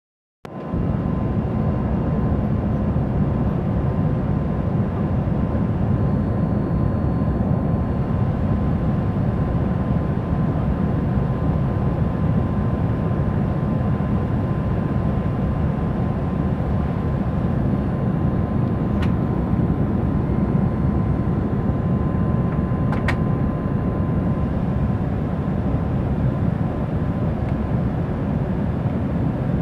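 Cabin noise inside an Embraer ERJ 175 airliner on its descent to land: a steady low rumble of the turbofan engines and rushing air, with a faint steady whine that fades about three-quarters of the way through. Two short sharp clicks come a few seconds apart in the latter half.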